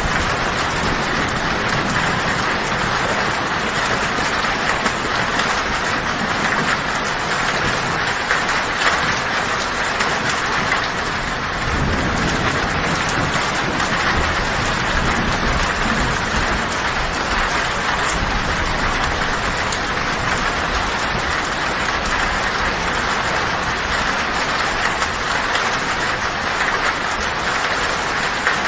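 Heavy rain drumming steadily on a tin (corrugated metal) roof. A low rumble of thunder comes in about twelve seconds in and lasts several seconds.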